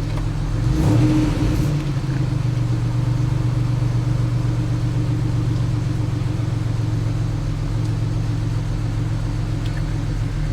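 Car engine idling, heard from inside the cabin: a steady low hum that swells briefly about a second in, then settles back.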